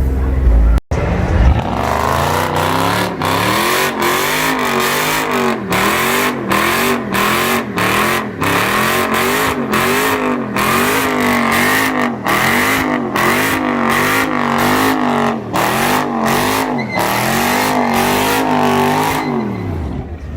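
Car engine held at high revs with tyres squealing. The engine note swells and dips in a regular cycle roughly once a second for about fifteen seconds, then dies away near the end.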